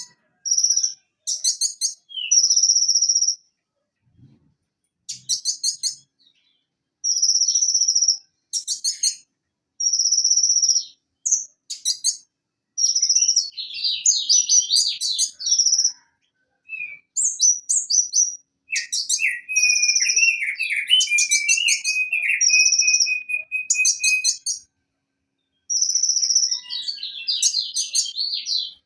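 Purple-throated sunbird (konin, Leptocoma sperata) singing: bursts of very high, rapid chirps and trills with short pauses between them, and a lower, longer trill about two-thirds of the way through.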